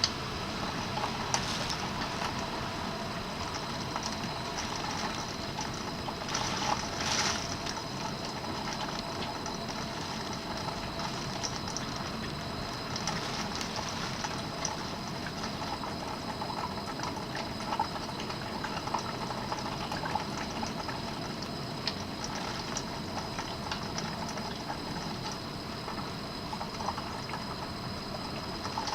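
Steady rain and wind of a typhoon, with scattered small ticks and a brief louder swell about seven seconds in.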